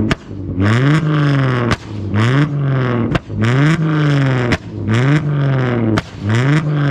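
Stretched Mercedes E-Class wagon's V6, on a straight-through exhaust with AMG tips, revved hard about five times in a row while parked. Each rev climbs and falls back, and a sharp exhaust pop cracks out as it drops off.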